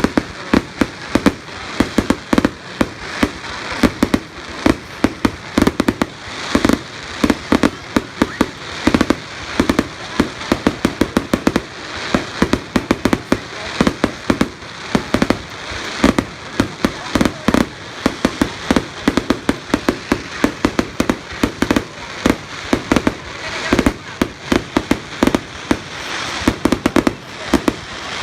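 Fireworks display: sharp bangs in quick succession, several a second, running on without a break.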